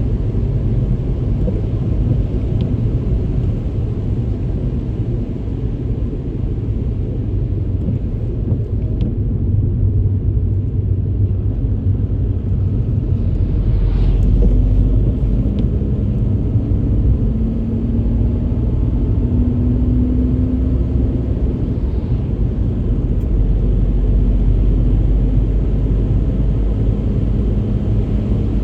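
Car driving on a rain-soaked road: a steady low rumble of tyres and engine, with a faint engine note rising about halfway through.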